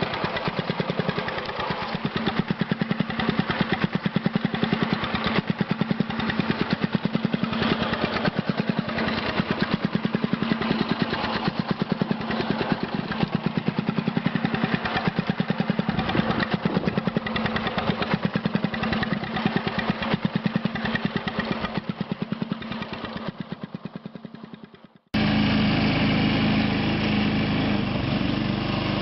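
Small engine of a homemade mini tractor running with a rapid, even firing beat that dies away near the end. After an abrupt break, an engine runs steadily again.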